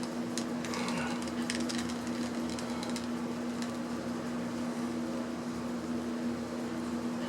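Steady low machine hum, with a few faint clicks and scrapes in the first three seconds from a hand screwdriver working at small screws in a plastic casing.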